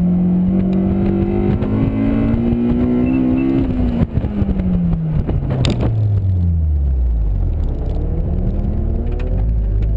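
Honda S2000's four-cylinder engine under load, its revs climbing for about four seconds, then dropping steeply to low revs. A sharp click comes about four seconds in and a brief crack just before six seconds. The revs start climbing again near the end.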